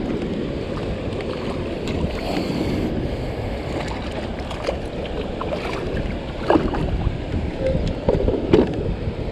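Wind buffeting the microphone over open water, a steady low rush, with a few short knocks in the second half.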